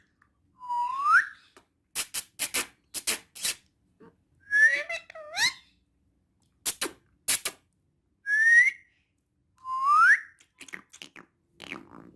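Ringneck parrot whistling: short upward-gliding whistles, about five in all, with bursts of sharp clicks between them.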